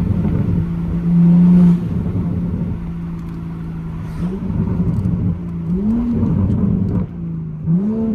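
Tuned MK5 Toyota Supra's engine and exhaust running with a steady drone, a short louder surge about a second in, then three quick throttle blips, each rising and falling in pitch. A few sharp crackles come between the blips.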